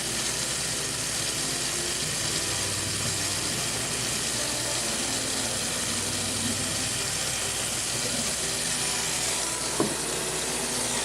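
Kitchen tap running steadily into the Angry Mama microwave cleaner, filling it with water, with a brief knock near the end.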